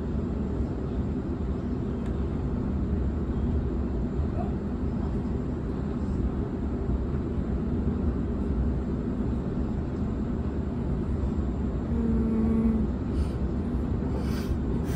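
Electric suburban train running along the track, heard from inside the carriage: a steady low rumble, with a short hum about twelve seconds in.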